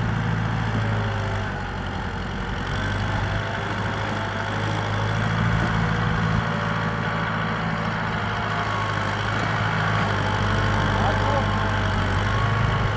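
Kubota M6040SU tractor's four-cylinder diesel engine running steadily at a constant speed.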